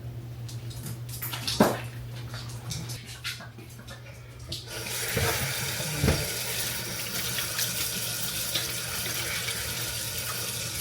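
A few light knocks and clicks, then a tap is turned on about five seconds in and water runs steadily into a sink.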